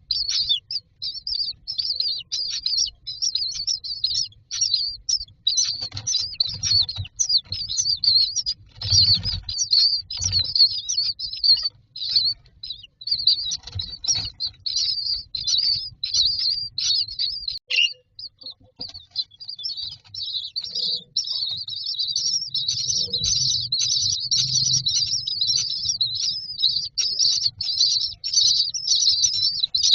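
Common myna nestlings chirping rapidly and non-stop in high-pitched begging calls as they are fed. A few soft low thumps come now and then.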